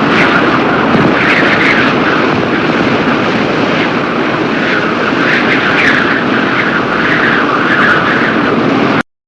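Loud, dense storm-wind noise of a tornado sound effect: a steady rush with higher gusts swelling and fading over it. It cuts off suddenly about nine seconds in.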